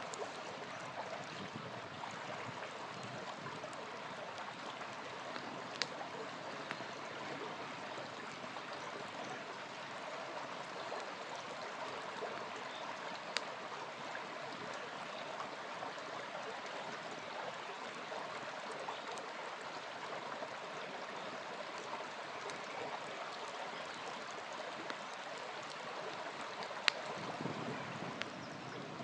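Small river flowing steadily, with a few sharp pops from a campfire burning beside it.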